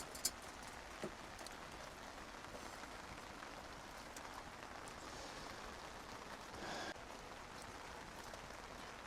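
Steady rain falling, with a few sharp drip ticks in the first second and a brief louder swish about two-thirds of the way through.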